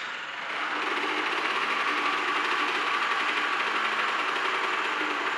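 Gilera RC125's two-stroke single-cylinder engine running steadily just after its first kick-start on a freshly rebuilt carburettor and 3D-printed intake manifold.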